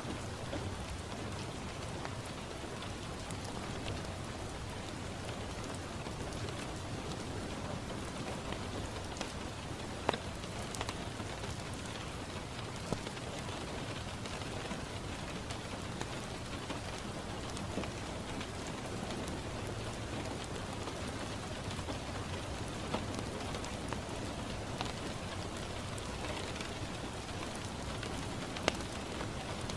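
Steady rain falling on a window, an even patter throughout, with a few sharp crackles from a wood fire now and then.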